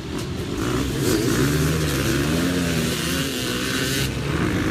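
Dirt bike engines revving, their pitch rising and falling, with a rushing hiss over them from about a second in until shortly before the end.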